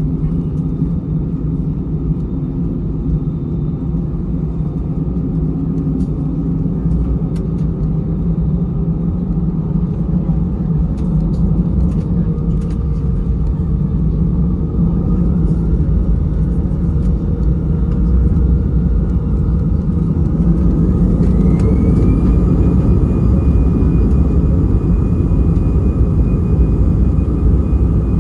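Airbus A320's CFM56-5B jet engines spooling up to takeoff thrust, heard from inside the cabin: a deep steady rumble grows gradually louder, and about 21 s in a whine climbs in pitch and then holds steady as thrust is set.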